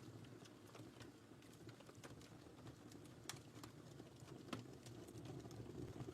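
Wood fire crackling faintly in a fireplace: scattered small snaps and pops, the sharpest just past three seconds and about four and a half seconds in, over a low steady rumble of the flames.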